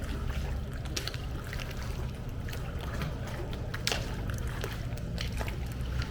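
Pool water splashing and lapping in irregular short splashes, with a steady low wind rumble on the microphone.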